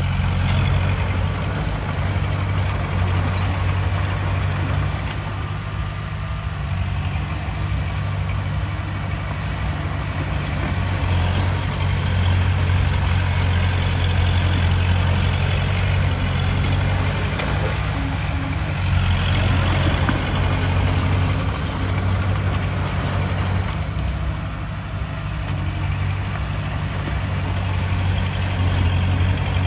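Diesel engine of heavy earthmoving machinery running steadily, a deep even drone throughout.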